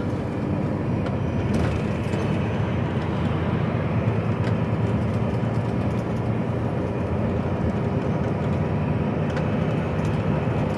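An HGV lorry's engine and road noise, heard from inside the cab while driving: a deep, steady rumble.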